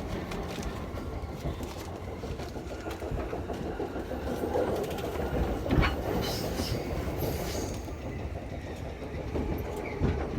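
JR Yamanote Line commuter train running between stations, heard from inside the carriage: a steady rumble of wheels on rail, with a sharp clack about six seconds in and another near the end.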